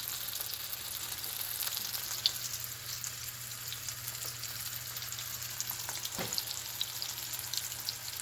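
Chicken pieces frying in oil in a pan, sizzling steadily with many small crackles, over a faint steady low hum.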